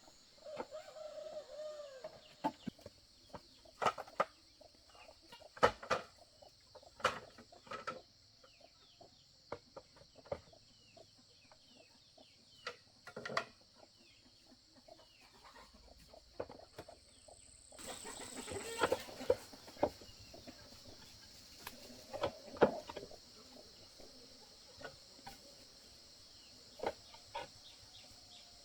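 Chickens clucking, with a dozen or so sharp knocks and taps at irregular intervals.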